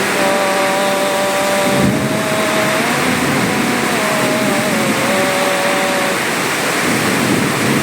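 Steady, loud rush of heavy rain and wind, with a long wavering, held voice-like tone sounding over it.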